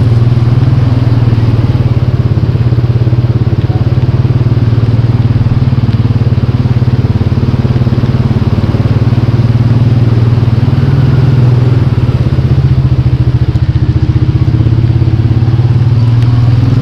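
An engine running steadily at an even speed, with a rapid, regular pulsing.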